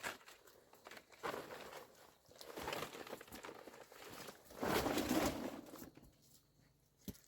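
Rustling, crinkling handling noises in three bursts, the loudest about two-thirds of the way through, followed by a short click near the end.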